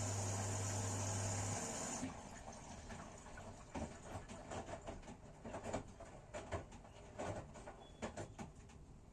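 Washing machine running with a steady hum and whir that stops about two seconds in. Scattered light clicks and knocks follow and fade away.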